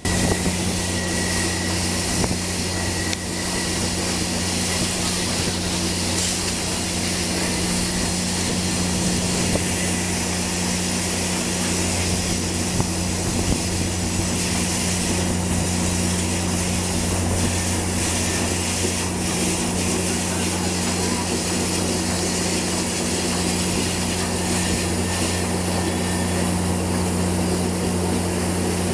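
Train rolling slowly behind Santa Fe 4-8-4 steam locomotive 3751: a steady low mechanical drone with a constant hum, plus rolling rail noise. A faint high whine sounds in the first few seconds.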